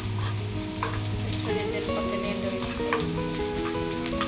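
Chopped onion and green chillies sizzling in hot oil in a small frying pan as they are lightly sautéed, stirred with a steel spoon that clicks against the pan a couple of times.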